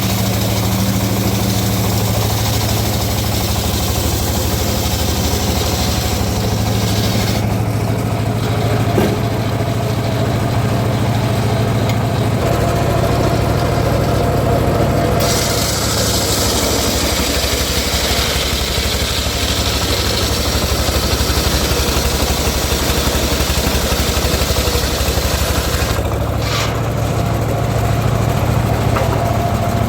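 Homemade circular saw machine running steadily with a loud engine hum. For about ten seconds in the middle the low hum drops and a higher hiss rises, then the hum returns.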